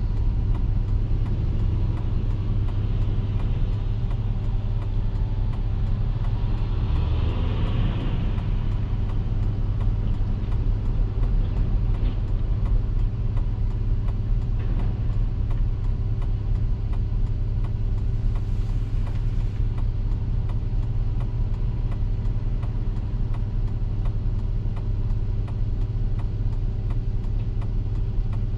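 A car driving along with a steady low road rumble, and a brief swell of hiss about seven to eight seconds in.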